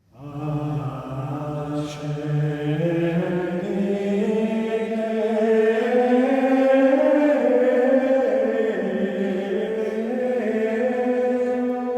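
Monks chanting in low men's voices, a slow liturgical chant of long held notes moving in small steps.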